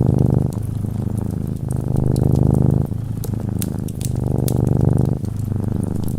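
Domestic cat purring close up, in swells about a second long that follow its breathing, with sharp crackles and pops of a wood fire scattered over it.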